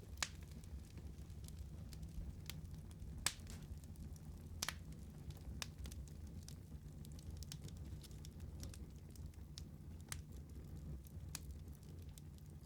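Wood fire crackling, with a low steady rumble of the flames and scattered sharp pops, the two loudest just after the start and about three seconds in.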